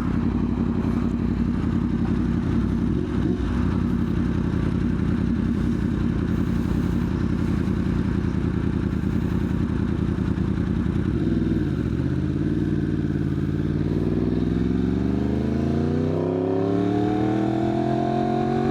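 Motorcycle engine running steadily at cruise, then easing off about eleven seconds in and accelerating, its pitch climbing steadily near the end.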